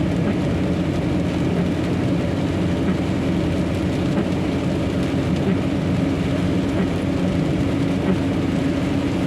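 Steady drone of a semi-truck underway, engine and tyre noise heard from inside the cab on a rain-wet highway.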